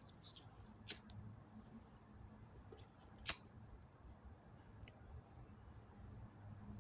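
Quiet room tone with two short clicks, one about a second in and a louder one a little past three seconds.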